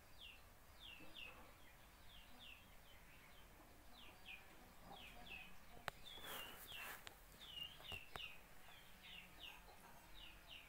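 Faint chirping of small birds: short, high downward chirps, often in pairs, repeating all the way through. There is a brief rustle and a couple of sharp clicks about six to eight seconds in.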